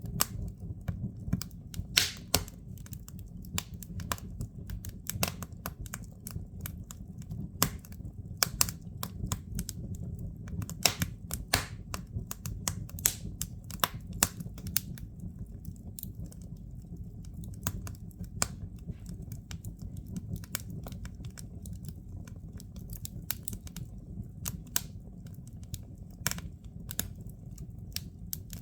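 Firewood burning in a fireplace, crackling: irregular sharp snaps and pops, some louder than others, over a steady low rumble.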